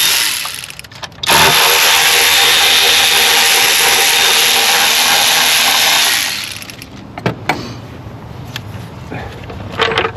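A power tool spinning at speed, backing out intake plenum bolts. It stops briefly under a second in, then runs again steadily for about five seconds and winds down, followed by a few light clicks and knocks as parts are handled.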